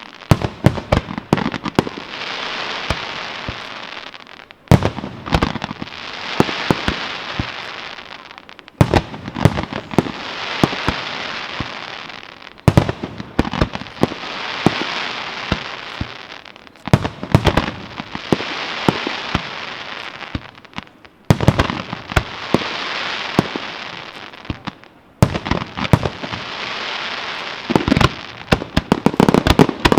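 Fireworks exploding in a repeating cycle about every four seconds: each time a cluster of sharp bangs, followed by a few seconds of dense crackling hiss that fades before the next round.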